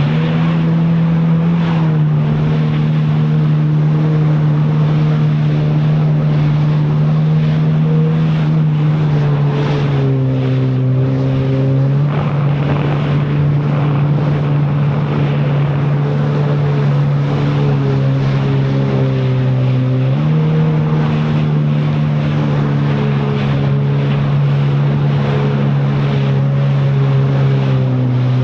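Jet ski engine running at speed over water, with rushing wind and spray. The engine pitch steps up and down a few times as the throttle changes.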